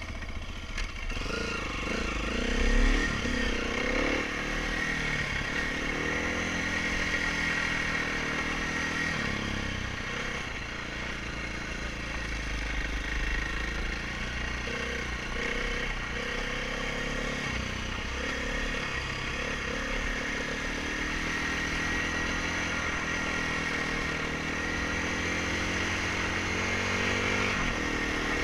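Dirt bike engine running at low speed, its revs rising and falling unevenly as it is ridden.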